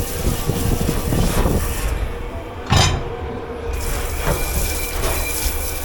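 Dish pit clatter over a steady machine hum and hiss: one sharp clank of crockery or metal about three seconds in, with a few lighter knocks around it, and a faint high whine from about four seconds in.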